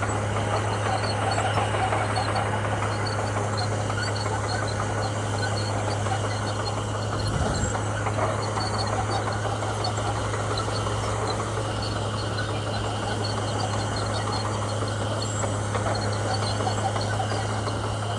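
Komatsu bulldozer's diesel engine running steadily, a low even drone, with insects chirping faintly over it.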